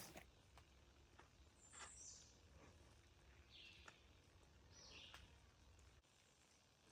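Near silence with a few faint, short bird chirps, each dropping in pitch, about a second or so apart.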